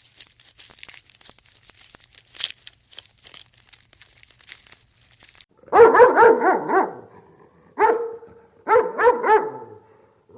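Faint light clicks and rustling, then about halfway in a dog starts yapping in quick high barks: a run of about five, a single bark, then three more in quick succession.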